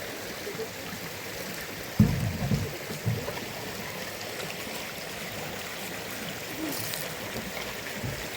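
Steady hiss of running water. A cluster of dull low thumps comes about two seconds in, and another about a second later.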